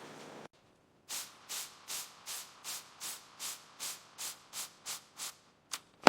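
A regular series of about a dozen soft rubbing strokes, two to three a second. They end with two quicker strokes and a sharp click.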